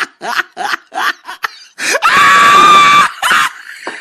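Repeated bursts of laughter, then about two seconds in a loud, steady prank train horn blast lasting about a second.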